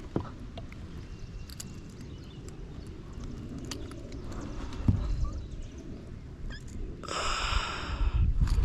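Handling noise as a hook is worked out of a bass: scattered small clicks and knocks over a low rumble, a thump about five seconds in, and a brief hiss about seven seconds in.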